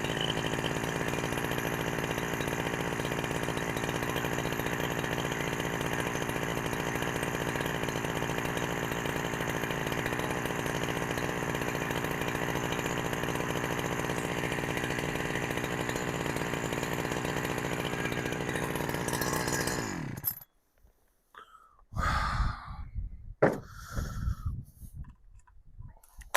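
A Husqvarna 372XP clone two-stroke chainsaw, fitted with a genuine carburettor, running at a steady speed. It shuts off about 20 seconds in, followed by a few knocks and clunks.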